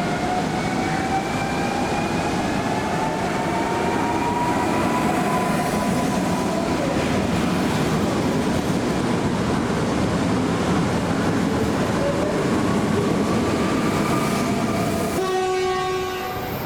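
A train running through the station: steady rumble of wheels with long, drawn-out tones slowly rising in pitch. Near the end comes a short horn blast about a second long.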